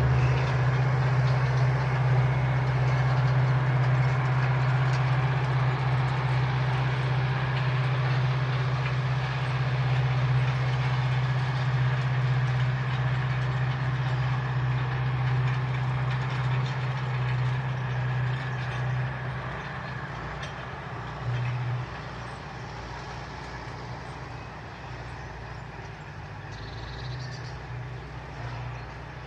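Large diesel farm machine engine running steadily with a deep drone, then fading away after about 20 seconds as the machine moves off.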